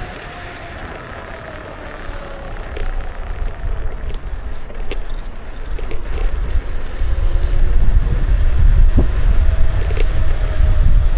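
Riding on a Kukirin G2 electric scooter: wind rumbling on an action camera's microphone, growing much louder about halfway through, with a faint gliding whine and scattered rattling clicks.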